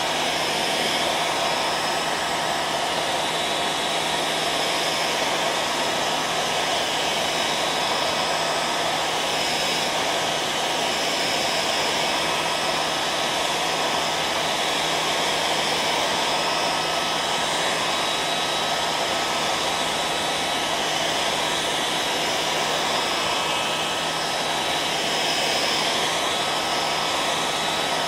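Hair dryer running steadily: an even rush of blowing air with a steady hum from its motor.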